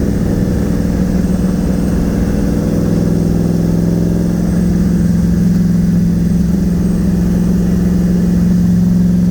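Nissan VK56 twin-turbo V8 in a 300ZX running at a steady light-throttle cruise, getting slightly louder about halfway through.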